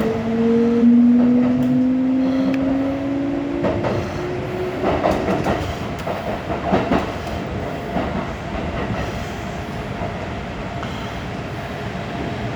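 Kintetsu electric train heard from inside the car, its traction motors whining in slowly rising tones as it picks up speed, then fading under wheel-on-rail running noise with a few clacks over rail joints about five to seven seconds in.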